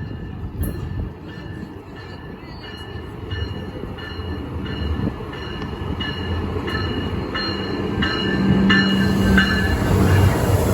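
Amtrak Pacific Surfliner train pulling in, its rumble growing steadily louder as it nears, while a bell rings in a steady rhythm, about three strikes every two seconds.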